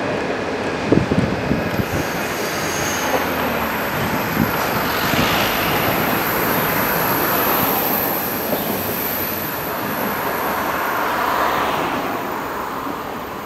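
Passenger train of 25T coaches rolling past at close range, a steady rush of wheel and rail noise with a few knocks over rail joints in the first seconds and a thin high-pitched squeal above it. It eases off near the end as the last coach draws away.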